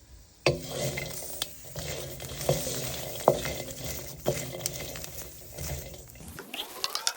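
Food frying in a pan while it is stirred, with the utensil knocking against the pan about once a second. The stirring stops about six seconds in.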